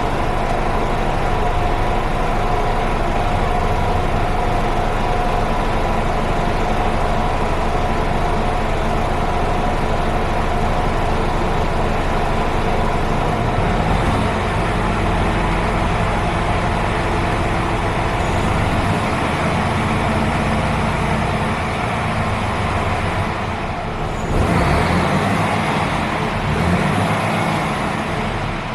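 Diesel engine of a Mercedes-Benz Actros 2543 tractor unit, a 12.8-litre straight-six, running steadily just after starting, with a brief louder surge about 24 seconds in.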